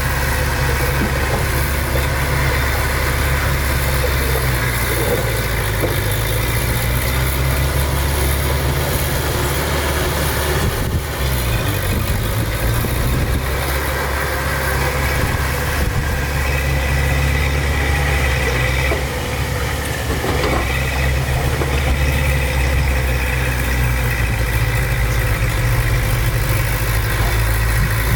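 Heavy diesel engine of earthmoving machinery running steadily, with brief changes in its note about 11 and 20 seconds in.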